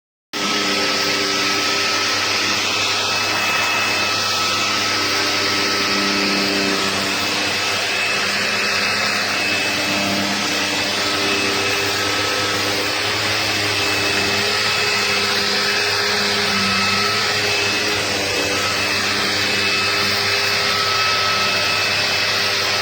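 Bissell PowerClean upright vacuum cleaner running steadily: a rush of air with a steady motor whine. It starts abruptly just after the beginning.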